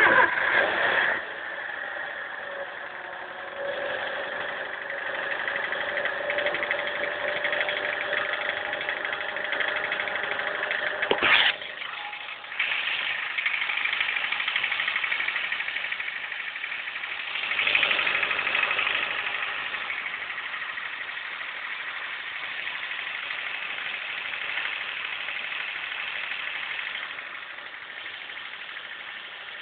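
Cold 2002 Honda Fit 1.3-litre engine starting abruptly, then running steadily at idle with a knock when cold, which the owner places somewhere around the timing belt.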